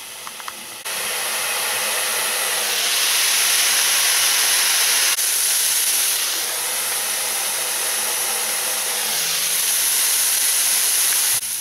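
Honey mushrooms frying in a pan, a steady loud sizzle and hiss starting about a second in, as the water they give off boils away.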